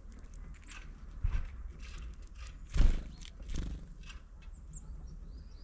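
Small bird at a window-mounted feeder: a few irregular taps and knocks, the loudest a heavy thump near the middle.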